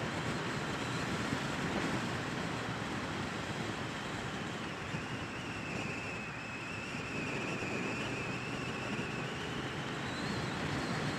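Steady rush of wind and road noise on a moving motorcycle, with the Triumph Bonneville T120 running underneath; a faint high whine rises in for a few seconds about halfway through.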